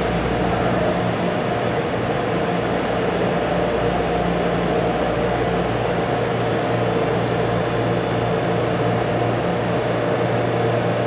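Steady hum of an electric commuter train standing at an underground platform, its auxiliary equipment and air-conditioning running, with a constant low drone and a few steady higher tones.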